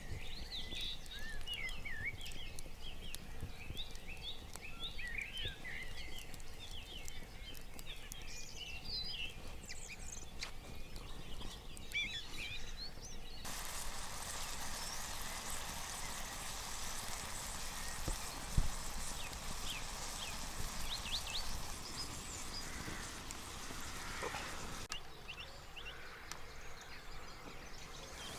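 Several songbirds chirping and trilling in a busy early-morning chorus. About halfway through, the sound changes abruptly to a steady hiss with only scattered bird calls, and a single sharp knock comes a few seconds after that.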